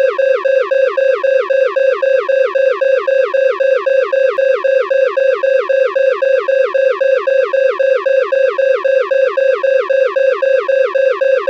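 Loud electronic alarm tone: a steady pitched tone overlaid with quick falling chirps, about five a second, repeating without change.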